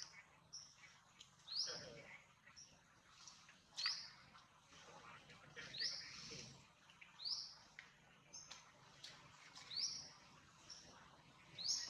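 A bird calling over and over: a short, high, rising chirp repeated about every one and a half to two seconds.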